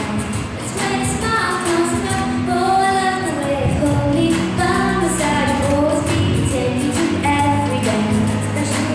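A female singer singing a melodic pop song over musical accompaniment.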